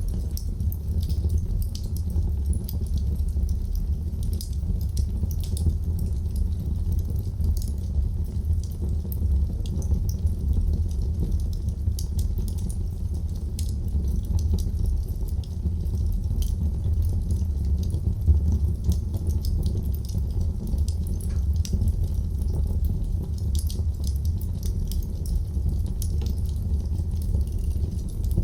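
Wood fire burning in a fireplace: a steady low rumble of flame with frequent small, sharp crackles and pops.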